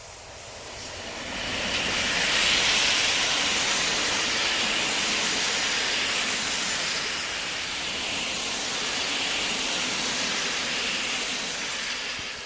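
A passenger train hauled by an EP07 electric locomotive passing at speed, its wheels running on the rails with a steady hissing rush. The noise builds over the first two seconds, holds, and starts to fade near the end.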